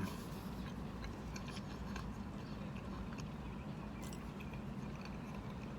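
Faint chewing of fast food, a few small wet clicks of the mouth over a low steady hum.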